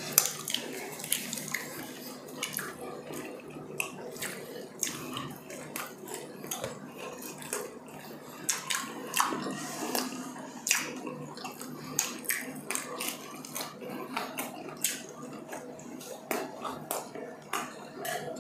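Close-miked mukbang eating sounds: wet chewing and mouth smacks, heard as many irregular sharp clicks.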